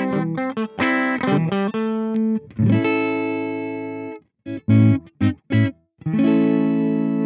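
Electric guitar with humbucker pickups played through a Peace Hill FX TR tube preamp: quick strummed chords, a chord held and then cut off abruptly about four seconds in, a few short stabbed chords, and a chord left ringing near the end.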